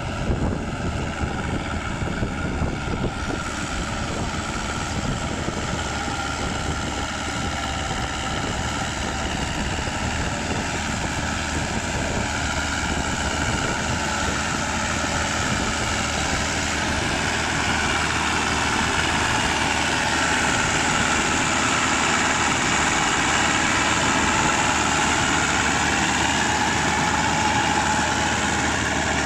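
Crawler tractor engine running steadily, its pitch rising and falling in the second half.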